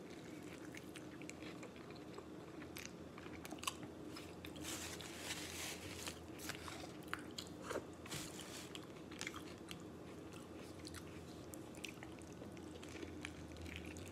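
A person biting into and chewing a chicken burrito close to the microphone: soft, wet mouth clicks and smacks scattered throughout, over a faint steady low hum.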